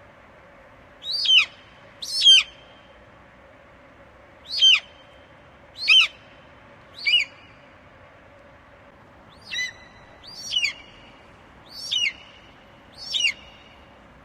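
An eagle calling: nine short, high cries, each sliding down in pitch, spaced one to two and a half seconds apart.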